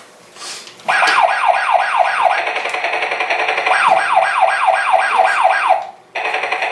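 Electronic siren sound effect from a Tonka Mighty Motorized toy helicopter's small speaker: quick falling wails about five a second, played in two runs. It cuts off near the end, and a different steady buzzing sound starts.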